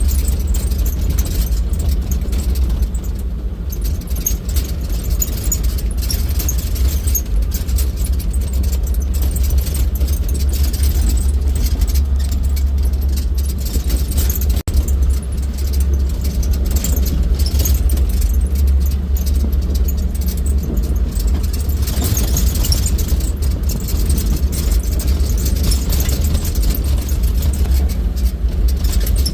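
Wind buffeting the microphone: a steady low rumble with a hiss above it, broken by a very brief dropout about halfway through.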